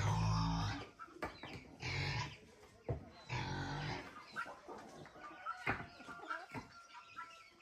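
Farm animals calling, chickens clucking among them: three louder calls in the first half, then fainter short clucks.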